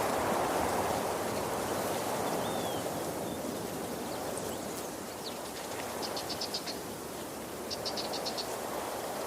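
Waterfall rushing steadily. Two short bursts of high, rapid chirps come near the end, and a brief whistled note sounds about two and a half seconds in.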